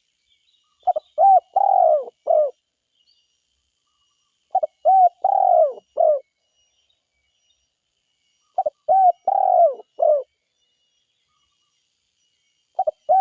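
Spotted dove cooing: three identical phrases about four seconds apart, each two short notes, a longer drawn note and a short closing note. A fourth phrase begins at the very end.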